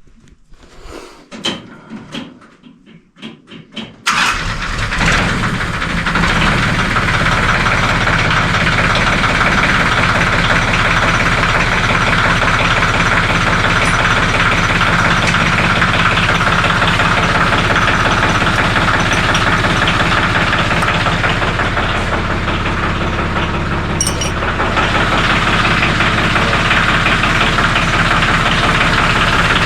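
Ford 1720 compact tractor's three-cylinder diesel engine starting up about four seconds in, then running steadily at idle.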